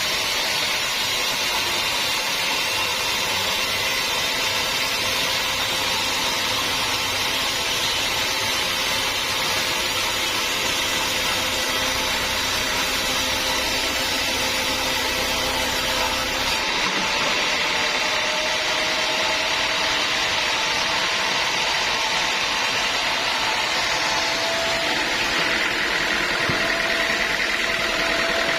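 Sawmill saw running through a teak log: a steady machine noise with a ringing whine. About 17 seconds in the low rumble stops and the whine shifts slightly in pitch.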